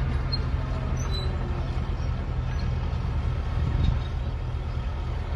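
Heavy equipment engines running steadily, a low diesel rumble from machinery working derailed rail cars, swelling briefly about four seconds in.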